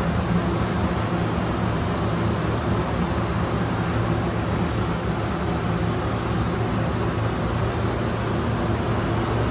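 Paint booth ventilation fan running steadily: a constant airy rush with a low, even hum.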